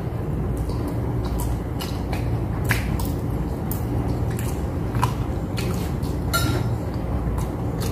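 Close-up wet chewing and lip smacks of a mouthful of soft avocado eaten off a spoon, with a handful of short sharp smacks scattered through. A steady low hum runs underneath.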